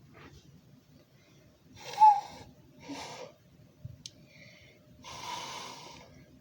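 Three breathy blows into cupped hands, an attempt at a hand whistle: mostly rushing air, with a short hooting note caught in the first and loudest blow, about two seconds in, and a faint held note through the longer last blow.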